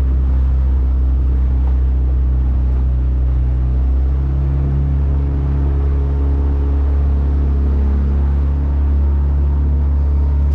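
Small motorboat's engine running steadily at or near full throttle with the hull on plane: a constant loud drone whose pitch shifts slightly now and then.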